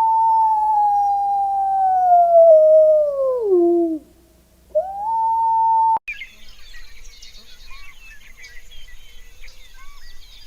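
An animal howling: one long, clear howl that slowly falls in pitch and drops away at the end, then a second howl that rises and is cut off about six seconds in. Faint birdsong chirping follows.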